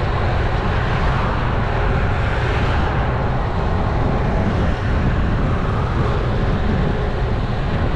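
Wind rushing over a GoPro action camera's microphone on a moving road bike: a steady, loud buffeting rumble with hiss above it.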